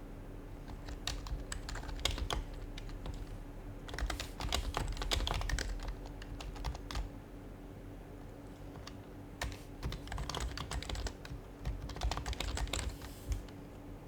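Typing on an HHKB Professional Hybrid Type-S keyboard with silenced Topre capacitive switches: quick runs of soft keystrokes in bursts, with a pause of about two seconds midway.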